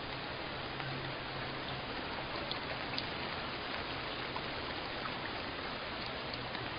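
Steady rain falling, an even hiss with scattered individual drop ticks. A faint low hum comes and goes underneath.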